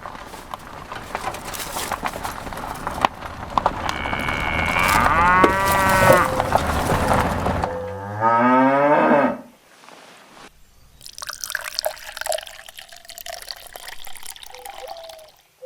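A cow mooing: a loud, long moo falling in pitch about eight seconds in, after about eight seconds of splashing water noise that builds steadily in level.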